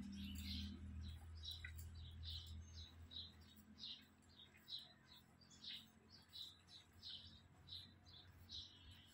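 Faint, repeated high chirps from small birds, about two a second.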